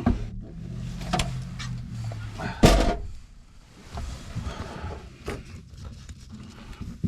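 Clicks and knocks of metal hardware being handled while a truck's power inverter is unbolted, with one loud clunk about two and a half seconds in.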